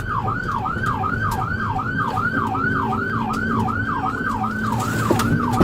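Police patrol car siren in yelp mode, a fast repeating rising-and-falling whoop about three times a second, over low engine and road rumble, sounded while the officer pursues a fleeing motorcycle.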